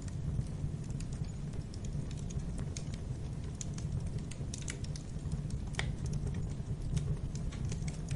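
Wood fire crackling in a fireplace: a steady low rumble of burning with scattered sharp pops and snaps, one louder snap about six seconds in.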